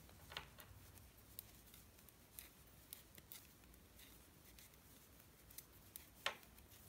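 Near silence with faint, irregular clicks of two knitting needles tapping together while stitches are knitted, one slightly louder click near the end.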